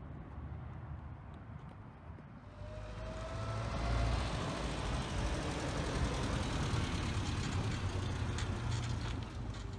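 Mini Moke's small four-cylinder engine running as the car drives slowly past. The engine sound grows louder about two and a half seconds in, with a faint rising whine at that point, then holds steady.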